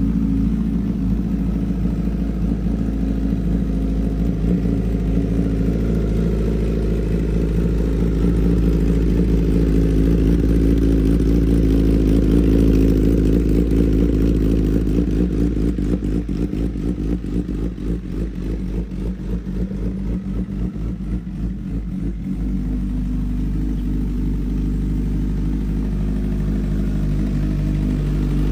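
Honda CBR1000RR inline-four engine running through its exhaust, mostly steady, swelling louder about a third of the way in. In the middle it turns choppy and pulsing for several seconds, then settles back to a steady run.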